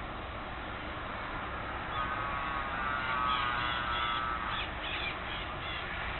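A bird calling: one drawn-out harsh note with stacked overtones lasting about two and a half seconds, starting about two seconds in, with a few short higher notes near the end, over a steady background hiss.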